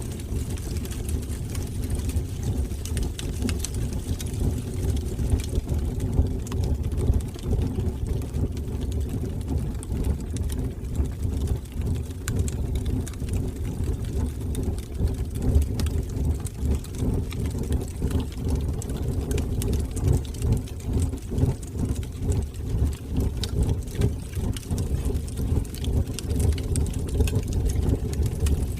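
Wood fire burning in a fireplace: a steady low rumble of the flames with many small, irregular crackles and pops throughout.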